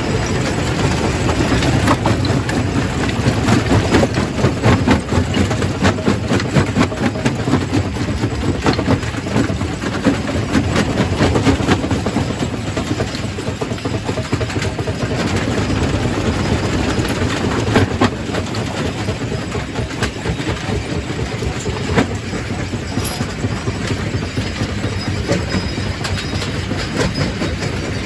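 Quarry primary rock crusher running and crushing stone: a continuous low rumble with dense, irregular knocks and clatter of rock.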